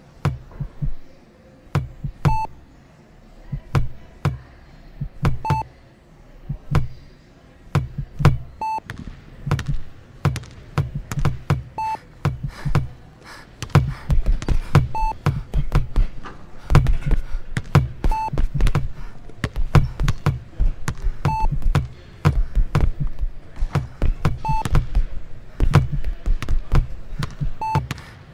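Electronic heart-monitor beep, one short high tone about every three seconds, over a bed of low heartbeat-like thumps and sharp clicks. The thumping grows denser and louder about halfway through.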